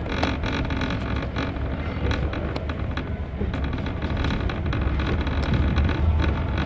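Passenger train carriage rolling slowly along a platform, heard from inside: a steady low rumble with scattered clicks and knocks from the wheels and coach.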